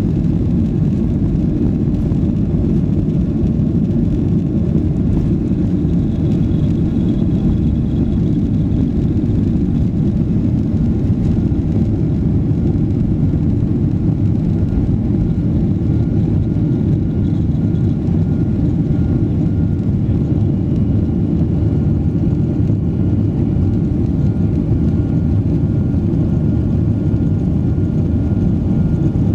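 Boeing 737 airliner's jet engines at takeoff power, a steady loud rumble with faint thin whining tones over it.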